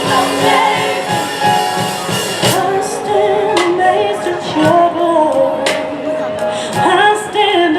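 Live gospel music: female voices singing a melody with held notes over piano and a steady drum beat.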